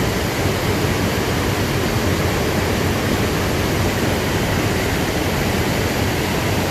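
Steady, unbroken rushing noise at the waterside, even from start to end with no distinct events.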